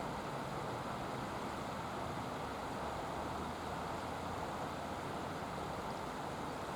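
Steady, unbroken drone of a distant helicopter, a rushing noise over a low hum.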